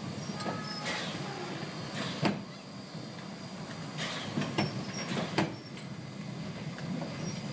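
1927 vintage steam train running: a steady low rumble with irregular sharp clanks and knocks, the loudest a little over two seconds in.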